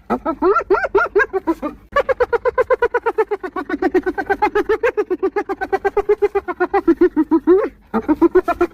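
Spotted hyena laughing: a rapid run of short rising-and-falling notes, about ten a second. They come in bouts, with brief breaks about two seconds in and again near the end.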